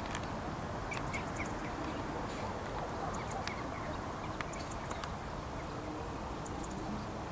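Outdoor background: a steady low rumble with scattered short bird calls, a cluster of them about a second in, and a few faint ticks.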